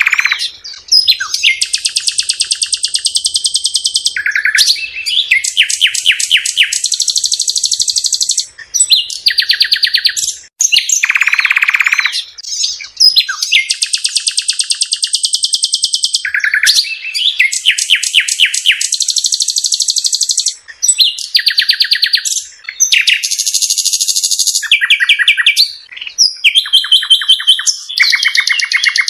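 A songbird singing a long, loud song of rapid trills and chirps, switching from one phrase to the next every second or few with only brief pauses.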